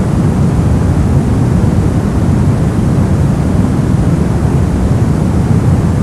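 Brown noise: a steady, deep rumbling hiss with most of its weight in the lows, unchanging throughout.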